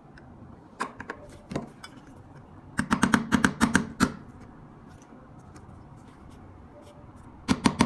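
Sharp clicking and tapping from a metal petrol lighter being worked on by hand: a few clicks about a second in, a quick run of clicks around three seconds in, and another run near the end.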